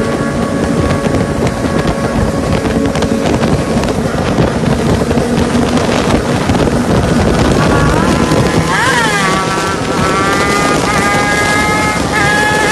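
Superbike engine running at speed under heavy wind noise on the microphone. About nine seconds in, the engine revs up and drops back, then holds a higher, steady note that steps in pitch a couple of times.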